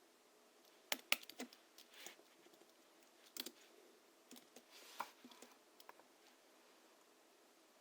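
Typing on a Hansung GHL-5X mechanical keyboard, its springs lubricated with Krytox 103 and 107, giving soft, low clacks. The keystrokes come in short irregular bursts from about a second in and stop about six seconds in.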